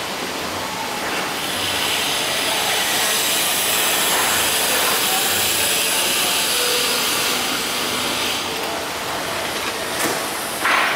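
A train passing on the railway overhead: a steady rushing noise that builds about a second and a half in and dies away about eight seconds in. A single sharp knock near the end.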